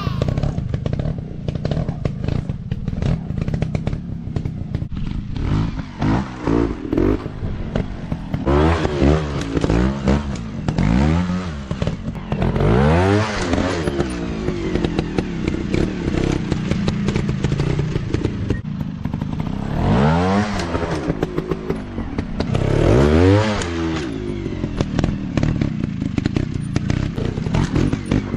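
Dirt bike engines revving up and falling back again and again, with clattering and scraping from the bikes working over rough ground.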